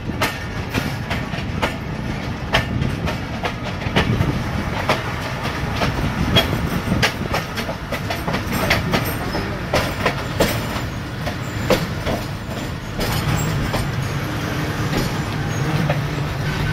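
Train running on a branch-line track: a steady rumble with sharp wheel clacks over the rail joints, roughly one a second and uneven, as the coaches shake on the track. A low steady hum joins in near the end.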